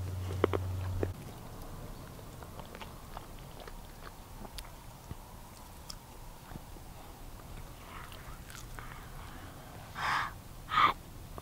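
A person biting and chewing food close to the microphone, with scattered small clicks and crunches, and two short louder sounds near the end.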